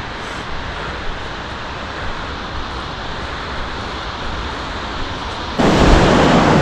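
Steady rush of a whitewater river rapid. About five and a half seconds in it cuts suddenly to a much louder rush of water, with wind buffeting the microphone.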